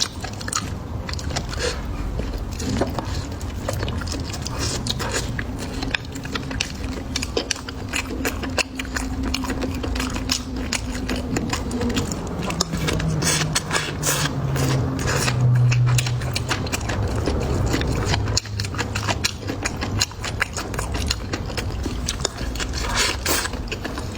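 Close-miked eating sounds: wet chewing and biting with many irregular crunchy clicks. A low steady hum runs under it through the middle, dropping in pitch about halfway.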